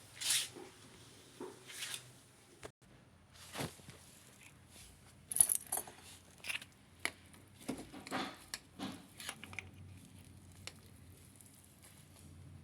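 Scattered handling noises: short, irregular clicks, knocks and rustles, the sharpest about five and a half seconds in, over a faint low hum.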